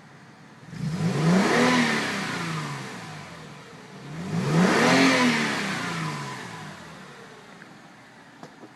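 Mercedes-Benz W221 S-Class engine revved twice with no load: the pitch jumps up sharply each time and then falls back slowly toward idle.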